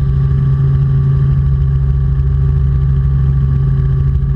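Robinson R44 Clipper II helicopter in cruise flight: a steady drone from its engine and rotors, heard in the cabin, holding one even pitch throughout.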